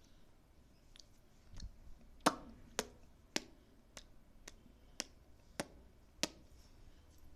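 A baby clicking its tongue: about eight sharp, crisp clicks at an even pace of roughly two a second, the first the loudest, after a couple of faint ones.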